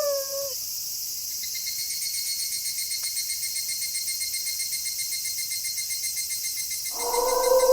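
Crickets trilling steadily in a high, fast-pulsing chorus. A wolf howl slides down in pitch and fades in the first half second, and another long wolf howl starts near the end, louder than the crickets.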